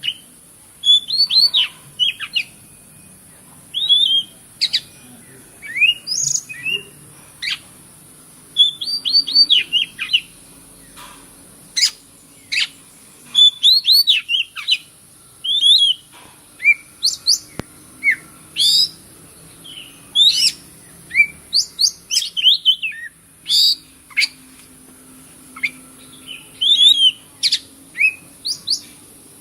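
Oriental magpie-robin singing: a run of short, quickly gliding whistles and chirps in varied phrases with brief pauses between them, over a steady high hiss.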